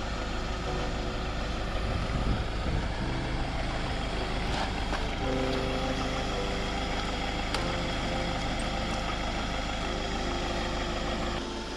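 Camper van's engine running under load as it tries to drive out of soft sand, its pitch shifting up and down several times as the throttle changes; it eases off near the end.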